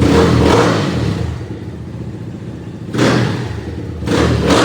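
Kews K16 dirt bike's NB300 single-cylinder four-stroke engine running on its first start-up, revved three times (right at the start, about three seconds in, and just after four seconds) and dropping back to idle between revs.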